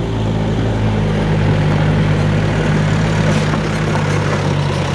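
Truck diesel engine under load, climbing a hill, a steady low drone.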